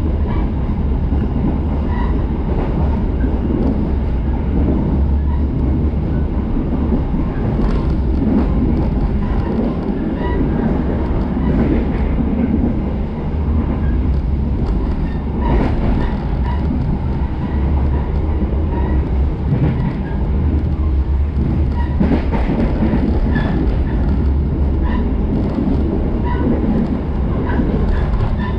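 A passenger train running along the track, heard from inside the carriage: a steady low rumble of wheels on rail, with occasional clicks and knocks.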